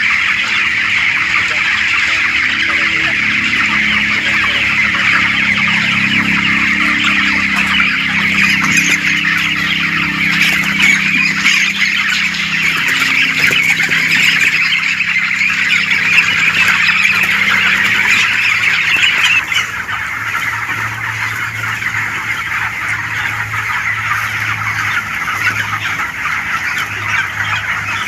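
A large flock of 27-day-old chickens in a poultry shed calling continuously in a dense chorus of chirps and clucks, with a low steady hum underneath. It gets a little quieter about two-thirds of the way through.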